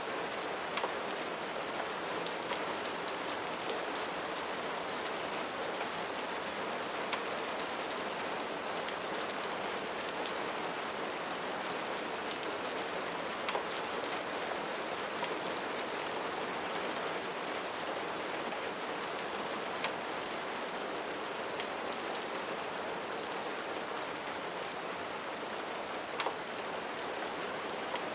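Steady rain falling, an even hiss with scattered faint ticks of individual drops or pops.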